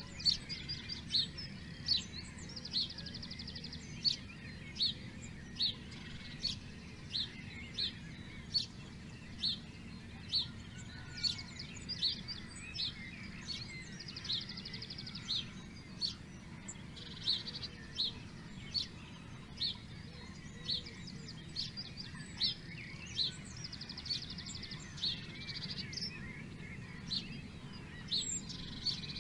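Birds chirping: short high chirps repeating roughly once a second, with a brief rapid trill now and then, over a steady low background noise.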